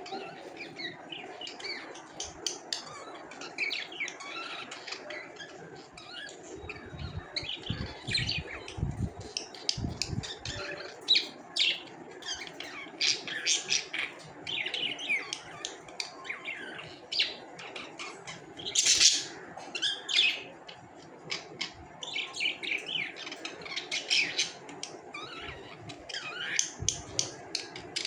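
Budgerigars chattering with rapid short chirps and squawks, the loudest burst of calls about two-thirds of the way through. A few low knocks come about eight to ten seconds in.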